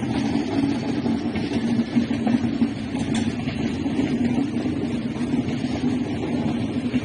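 A train running, a steady low rumble with a few faint clicks.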